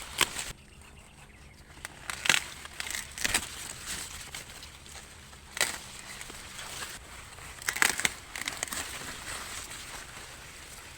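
Ears of sweet corn being snapped off the stalks: several sharp cracks a second or two apart, with rustling of the leaves and husks between them.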